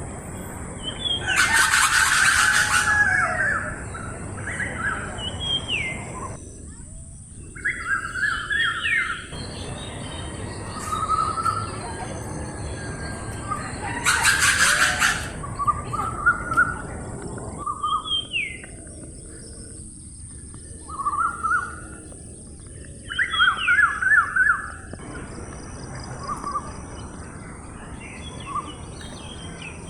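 Several birds calling: short pitched calls and chirps, some in quick runs of four or five notes, with two loud, harsh, noisy calls about a second long, one near the start and one about halfway through.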